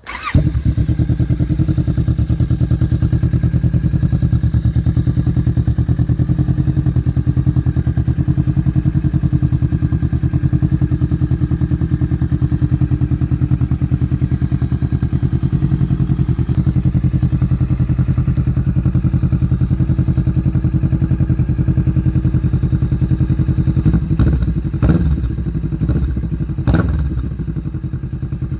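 2019 Kawasaki Vulcan S parallel-twin through a 21-inch bullnose Delkevic slip-on exhaust, idling steadily, then revved in two quick throttle blips near the end.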